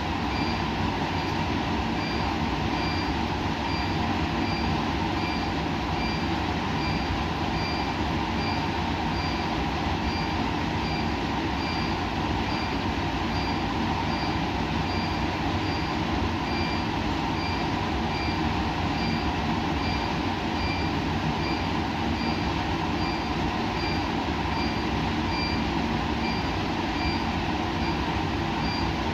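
Steady machine hum and hiss with several constant tones, and a faint high beep repeating about once a second.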